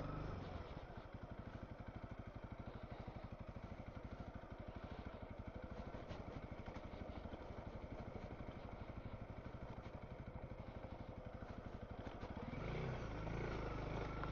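Honda CRF300L's single-cylinder engine running at low revs with a fast, even beat of firing pulses. About twelve seconds in it grows louder.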